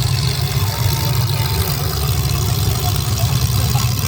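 Truck engine rumble running steadily at a low idle, with no rise or fall in pitch.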